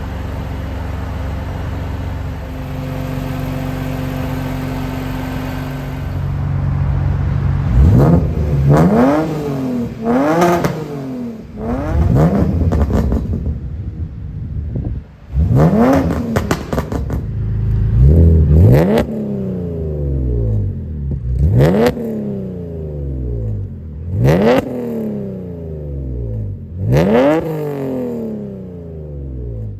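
BMW M54B30 straight-six breathing through an ISR MBSE exhaust with aftermarket headers: it idles with a steady low rumble, then is revved in about eight short blips, each climbing quickly and falling back to idle.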